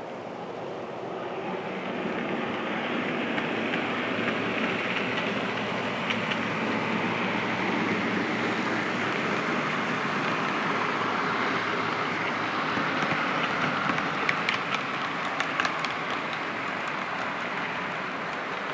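Model train running along the layout's track, a steady rolling and running noise that grows louder about two seconds in, with a few sharp clicks near the end.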